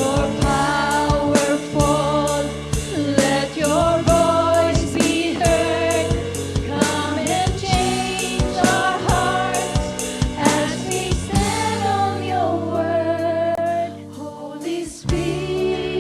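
Live worship band playing with sung vocals over sustained chords and a steady drum beat; the band drops out briefly about fourteen seconds in, then comes back.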